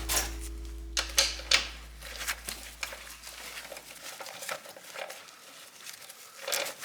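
Metal tools and parts clicking and clinking in irregular knocks during motorcycle engine work, with the last low note of background music fading out over the first few seconds.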